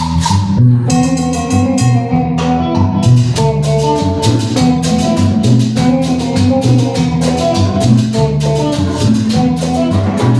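Band playing instrumental cumbia: a moving bass line and guitar over drums and percussion keeping a steady beat.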